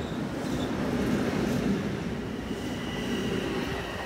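Long Island Rail Road M7 electric multiple-unit train running along the platform, a dense rumble of wheels on rail. About halfway through, a steady high whine comes in while the rumble eases.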